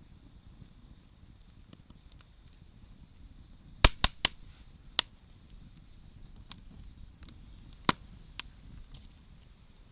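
Wood campfire crackling: sharp pops from the burning wood, a quick cluster of four about four seconds in and a couple more near the end, over a faint steady hiss.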